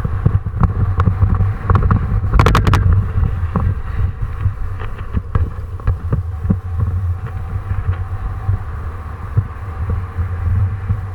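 Wind buffeting the microphone in a steady low rumble, with scattered clicks and a quick rattle of sharp clicks about two and a half seconds in.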